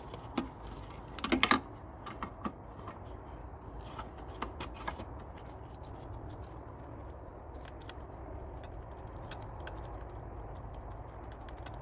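Light metal clicks and taps as a new spark plug is fitted back into the cylinder head of a Mercedes M112 V6 and started by hand. The loudest cluster of clicks comes about a second and a half in, followed by fainter, quicker ticks over a low steady hum.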